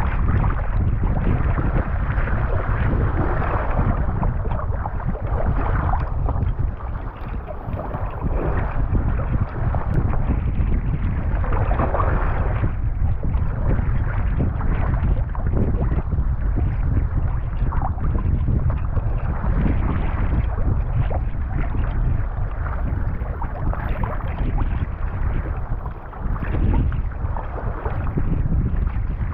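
Strong wind buffeting the microphone in a heavy low rumble, over rough water rushing and splashing around a sea kayak, with irregular surges as waves break.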